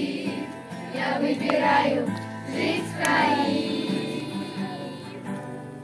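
A song with a group of voices singing, getting quieter toward the end as it fades out.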